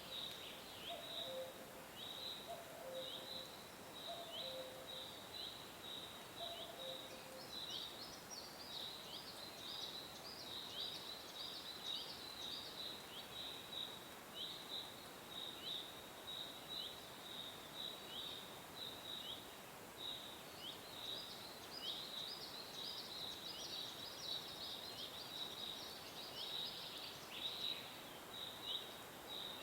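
Songbirds chirping: short, downward-sliding chirps repeat a couple of times a second throughout, with higher twittering joining in the middle and again near the end. For the first several seconds a lower two-note call repeats about every second and a half, over a faint steady hiss.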